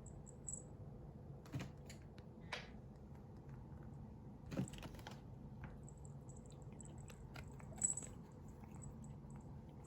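Faint, scattered clicks and taps of a kitten playing on and around a computer keyboard, with three louder knocks, over a steady low hum.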